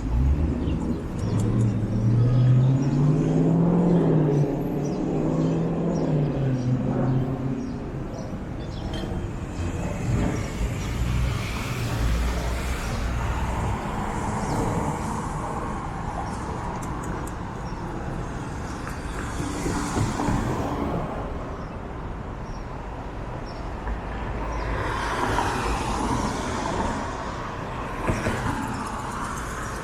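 City street traffic. A vehicle engine accelerates over the first several seconds, its pitch rising and falling as it goes, and then other cars pass by in a couple of swells.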